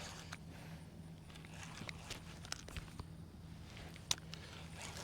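Handling noise of an angler fighting a hooked fish: light rustling and scattered small clicks, with one sharper click about four seconds in, over a steady low hum.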